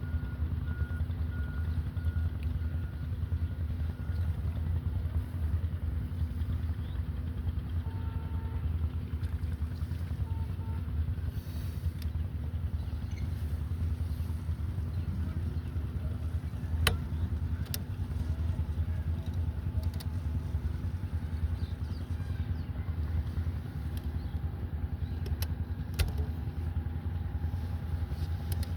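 Steady low rumble of a running engine, with a couple of sharp clicks.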